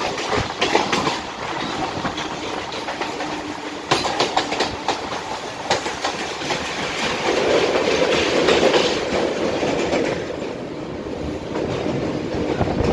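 Mumbai suburban electric local trains running side by side, heard from an open doorway: a dense rumble with clusters of sharp clicks and clatter from wheels over rail joints and points, over a steady low hum. The rumble grows louder for a few seconds about seven seconds in.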